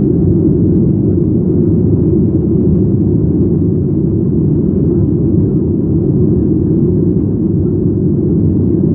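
Jet engines of a Boeing 737-800 (CFM56) at takeoff thrust, a loud steady low rumble.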